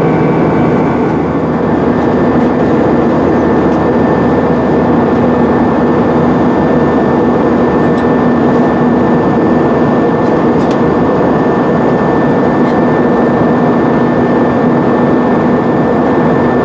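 Steady jet engine and airflow noise inside the cabin of an Airbus A320-232, whose IAE V2500 engines hold a constant hum with no change in power.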